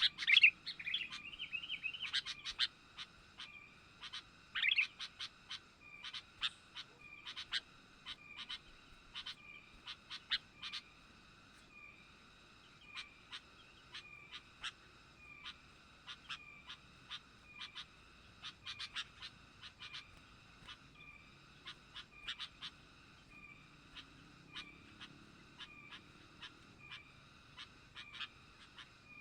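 Sooty-headed bulbul calling, with a few quick, louder chattering phrases in the first five seconds, then short chirps repeated at a steady pace, a little more than once a second.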